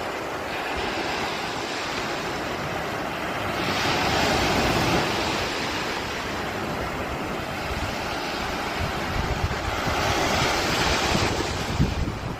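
Waves breaking on the Lake Michigan shore in strong wind, with wind buffeting the microphone. The surf swells louder twice, about four seconds in and again near ten seconds.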